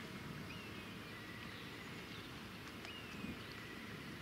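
Faint outdoor background rumble with a few thin, faint bird whistles that glide up and down in pitch.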